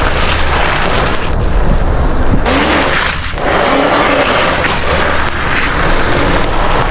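Wind buffeting the microphone while riding an e-bike through snow: a loud, steady rush with a heavy low rumble, dipping briefly about three seconds in.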